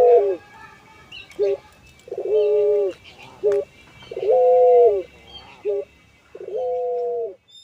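Puter pelung dove cooing: repeated two-part coos, each a short note followed by a longer held note, about every two seconds.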